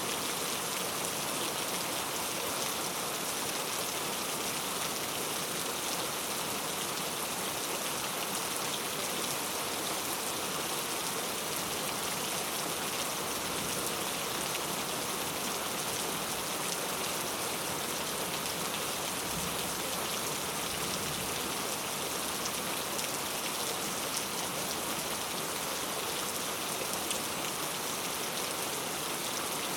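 Steady rain falling, an even hiss of drops on surfaces with faint individual drop patters.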